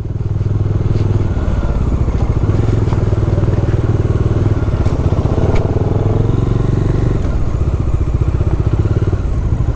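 Bajaj Dominar motorcycle's single-cylinder engine running steadily as the bike rides off, with a couple of light clicks about five seconds in.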